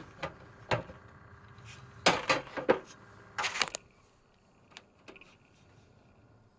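Handling noise on a desktop computer case: irregular clicks and knocks, a loud cluster of them about two seconds in and a rougher scraping burst about a second later. After that it settles to a faint steady hum from the computer's fans.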